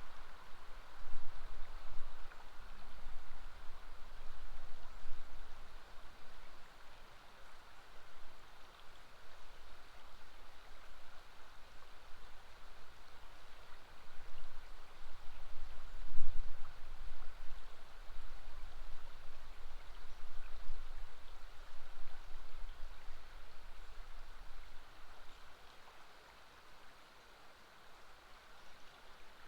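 River water flowing with a steady rushing sound, joined by a low rumble that swells and fades, loudest about sixteen seconds in and dying away near the end.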